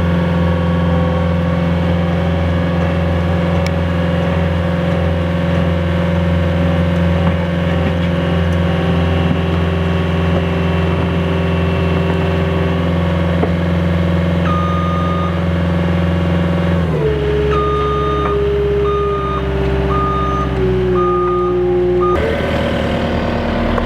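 A truck's engine running at a steady speed, then dropping to a lower speed about seventeen seconds in. A reversing alarm beeps repeatedly over the last several seconds.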